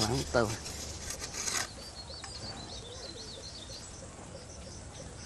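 Faint, high bird chirping in the background over a steady outdoor hum, after a brief voice sound and a few rustling scrapes in the first second and a half.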